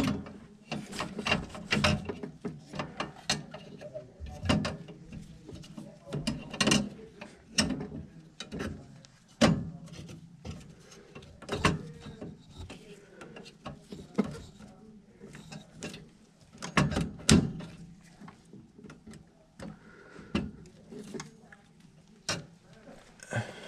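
Hand tools and metal parts being worked at a furnace's gas piping: irregular clicks, knocks and clanks, with a few sharper strikes.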